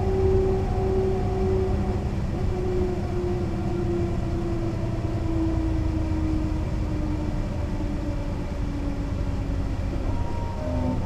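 Mercedes-Benz O 405 NÜ bus underway: a steady diesel rumble with a drivetrain whine that slowly falls in pitch, then a new, higher whine that sets in near the end.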